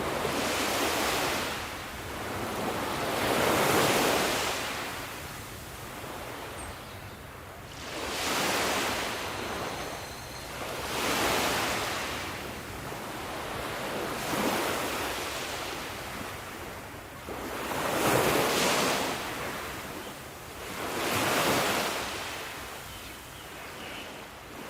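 Sea waves breaking and washing in, one surge after another about every three to four seconds, each swelling and then fading.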